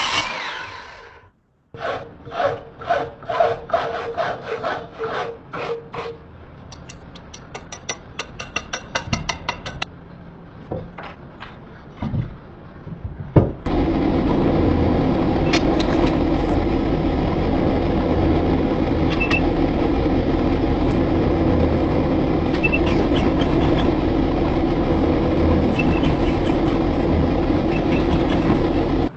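Steel being worked: a run of ringing metal strikes, then faster lighter taps, and from about halfway a steady loud grinding or rasping on the leaf-spring steel that continues to the end.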